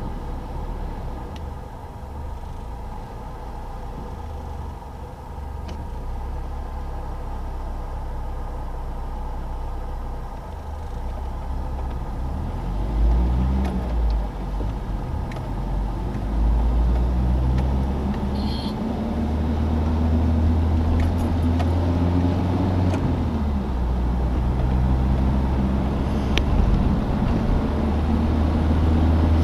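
Citroën DS four-cylinder engine and road noise while driving. The engine note rises and falls as the car accelerates through the gears, and it gets louder about halfway through.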